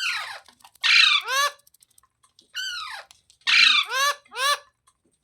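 Indian ringneck (rose-ringed) parakeet giving a series of harsh, screeching squawks, each call arching up and down in pitch, several coming in quick pairs and triples.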